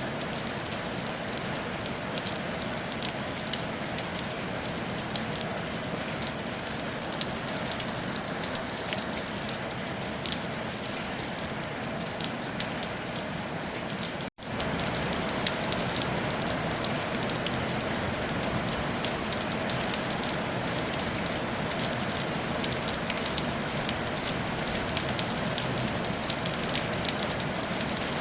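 Steady rain falling on a tile roof: a dense even hiss with many fine drop ticks. The sound cuts out for an instant about halfway through, then comes back slightly heavier.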